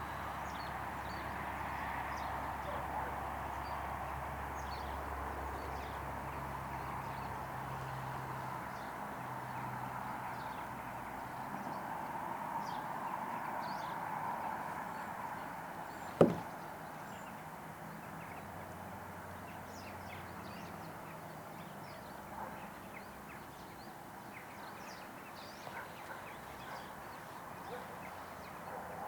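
Steady outdoor background noise, with a single sharp knock about sixteen seconds in.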